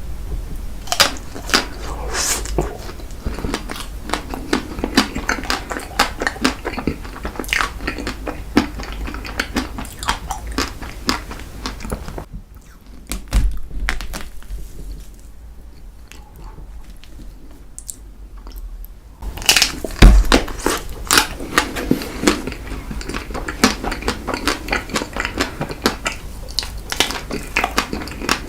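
A person biting and chewing strawberry chocolate ice cream dessert cake: a rapid run of short mouth clicks, with a quieter stretch of about seven seconds partway through before the chewing picks up again.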